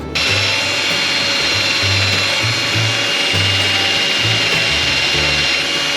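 A power tool starts abruptly and runs continuously, giving a steady hiss with a constant high whine.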